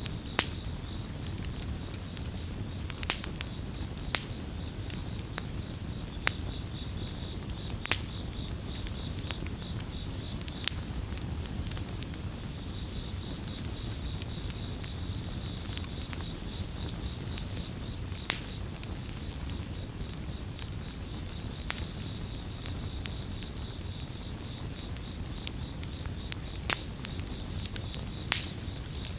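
Campfire crackling, with sharp pops scattered irregularly over a low steady rumble. Crickets keep up a continuous high, rapidly pulsing chirp behind it.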